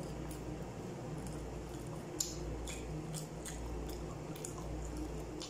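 Wet, squishy chewing and mouth sounds of someone eating goat trotter curry with bread by hand, with scattered small wet clicks and one sharper click about two seconds in. A steady low hum runs underneath.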